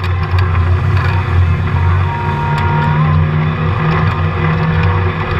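Polaris RZR side-by-side running while riding: a steady engine and drivetrain drone, with a thin, high, steady whine for about a second in the middle and light rattling ticks.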